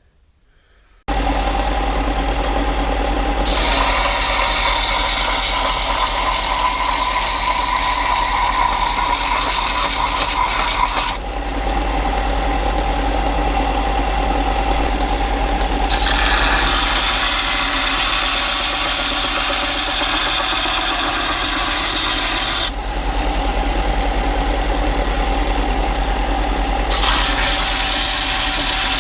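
Belt sander starting about a second in and running steadily with a low motor hum, with three spells of louder rasping hiss as a metal door-frame repair section is pressed to the belt to shave it down for a snug fit.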